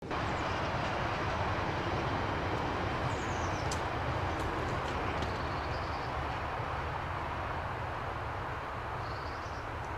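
London Underground train running: a steady rumble and rushing noise, with a few faint short high squeals.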